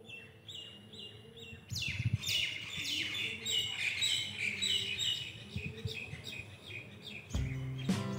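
Birds calling: short, high repeated chirps, then from about two seconds in a dense run of loud, shrill, falling calls that overlap one another. Guitar music comes back in near the end.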